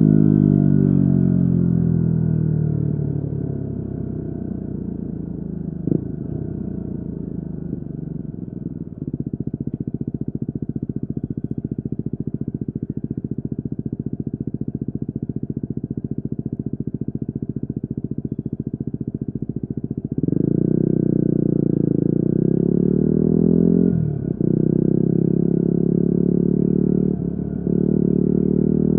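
Yamaha WR250R's single-cylinder four-stroke engine through an FMF Q4 exhaust. It falls in pitch as the bike slows, runs steadily at low revs with an even pulse, then picks up about two-thirds of the way in as the throttle opens, with two brief dips in the note near the end.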